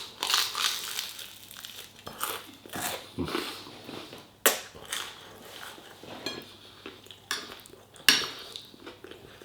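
Cutlery clinking and scraping against a plate in a series of separate sharp clicks, with chewing in between.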